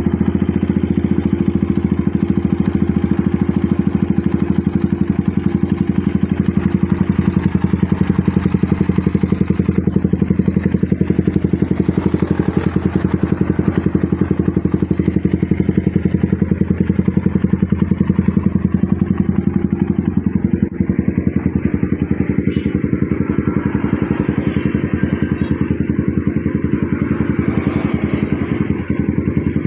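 Suzuki Satria FU's single-cylinder four-stroke engine, its cylinder head modified for double exhaust ports, idling steadily through the exhaust.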